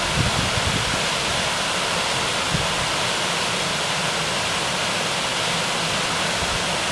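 Mountain valley stream rushing over rocks: a steady, continuous rush of water.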